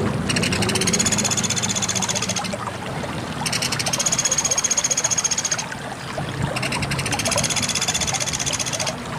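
Pelatuk beras woodpecker calling: three rattling trills of fast, high notes, each about two seconds long, with about a second between them, over a steady low background rumble.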